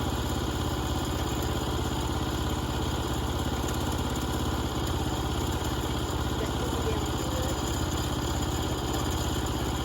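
Small engine idling steadily at an even speed, not under load, with a constant low pulsing beat.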